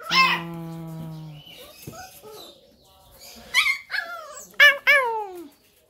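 Pit bull puppy whining and yelping: one high falling cry at the start, then a quick string of falling yelps in the second half.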